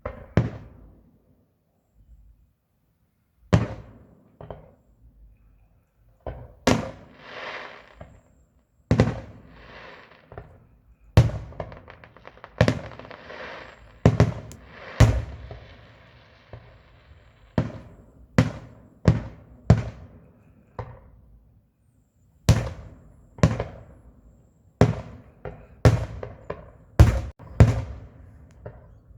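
Aerial fireworks bursting: a series of sharp bangs, a few seconds apart at first and coming faster near the end, with a hissing crackle trailing some of the bursts.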